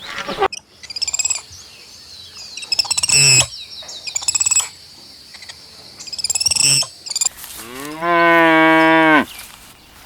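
Small birds chirping in short high bursts, then near the end one long, steady moo from a cow.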